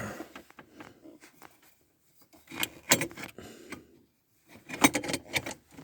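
Clicks and rattles in two short clusters, about two and a half seconds in and again near the end: a fuel pressure gauge and its hose being handled and set in place against the truck.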